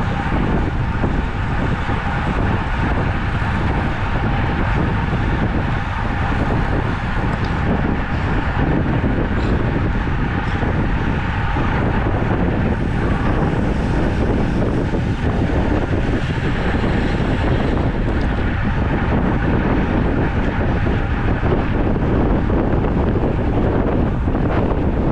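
Steady wind rushing over the microphone of a camera carried on a moving road bicycle, a constant low rumble with no breaks.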